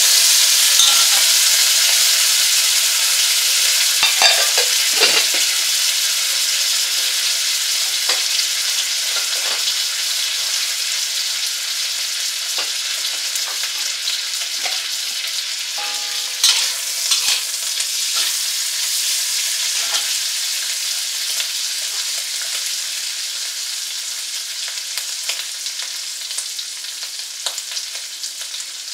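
Chicken pieces frying in hot oil in a wok: a loud sizzle that starts as they go in and slowly dies down. A few knocks and scrapes of a metal spatula against the wok come about four seconds in and again about halfway through.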